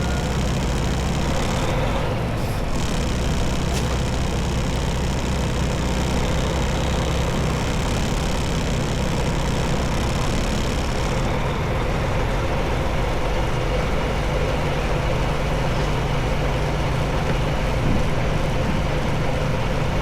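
Semi-truck's diesel engine running with a steady drone and road noise while the truck is under way.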